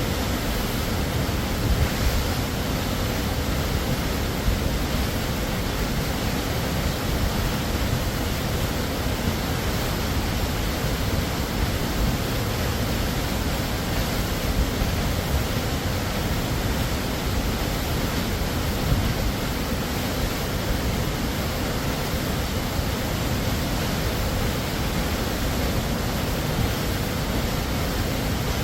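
Waterfall pouring steadily: an even, dense rush of falling water, with a few brief louder moments.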